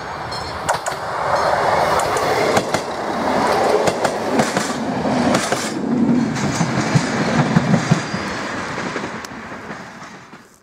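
A ČD class 842 diesel railcar with a trailer car passing close by, its wheels clicking over the rail joints. It grows louder as it goes past, then fades away as it leaves.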